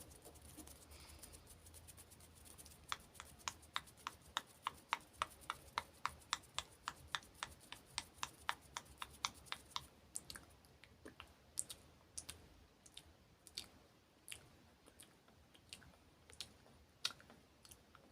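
Close-miked ASMR clicks: a quick, even run of sharp clicks, about three a second, starting about three seconds in, then slower, irregular clicks from about ten seconds on.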